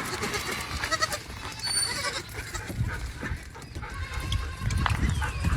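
Goats bleating, several short calls, over a low background rumble.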